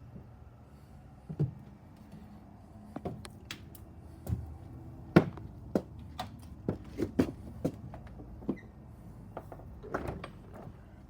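A series of irregular sharp knocks and clicks over a low steady hum, loudest about five seconds in.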